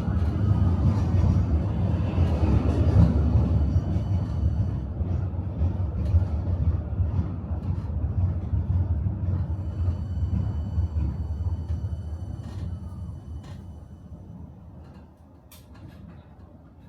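Tram rumbling along its rails and slowing down: the running noise fades steadily to almost nothing as it comes to a halt, with a faint high whine and a few sharp clicks near the end.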